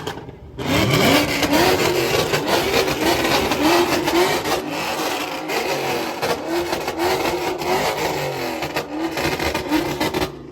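Car engine revving hard, its pitch sweeping up and holding again and again, over a loud rushing hiss. It starts about half a second in and cuts off abruptly at the end.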